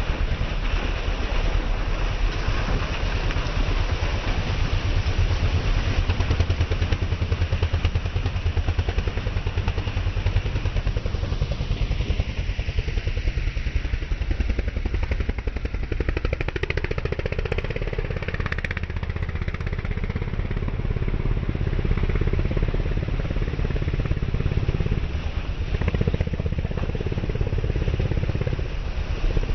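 Racing vehicle engines running and revving under a steady rush of noise, with one engine rising and falling in pitch about halfway through.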